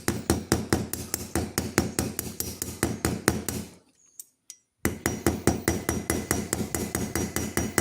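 Small hammer tapping rapidly on the end of a knife's metal pivot pin, about five light strikes a second, to peen it just enough that it won't slide out. The tapping stops for about a second midway, then carries on.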